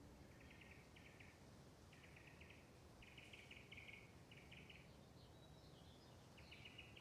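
Faint bird calls: a series of short, rapid trills, about seven of them, with a few higher chirps in between, over low wind rumble.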